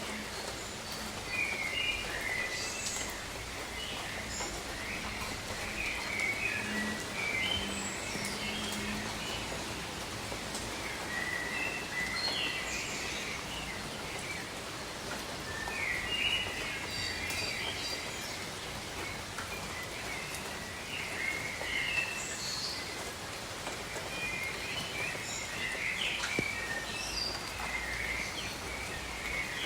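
Steady rain falling, with birds chirping in short runs of calls every few seconds.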